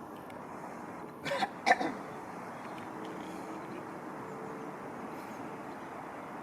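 A person clears their throat in two short bursts about a second in, over steady background noise with a faint hum.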